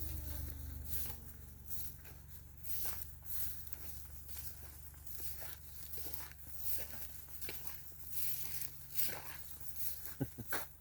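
Irregular rustling and crackling clicks over a steady low hum, with a quick cluster of sharper clicks near the end.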